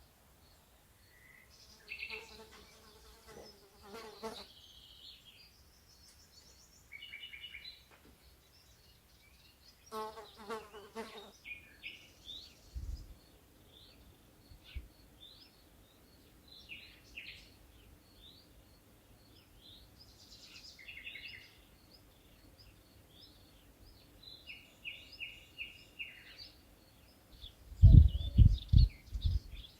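Night-time nature ambience: an insect gives a steady high ticking chirp, about two a second, while birds call at intervals with short, varied calls. Near the end comes a run of loud low thumps.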